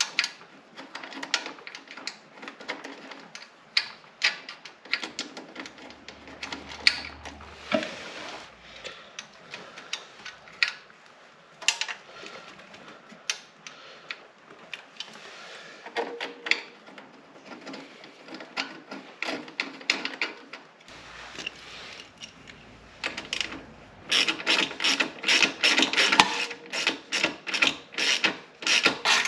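Ratchet wrench clicking in short runs, with scattered metal knocks, as exhaust mounting nuts are run down and nipped up. Near the end the clicks come in a fast, continuous run.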